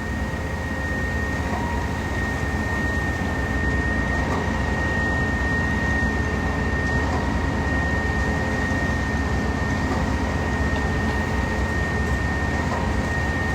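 Steady drone of heavy machinery on a concrete pour, most likely the concrete pump truck's diesel engine working, a constant low rumble with a thin, steady high-pitched whine over it.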